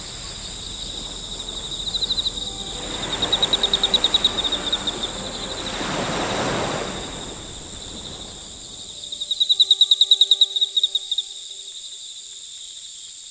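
Insects chirping in fast pulsed trills, in several bursts, over a steady high-pitched insect drone. A soft swell of rushing noise comes about six seconds in.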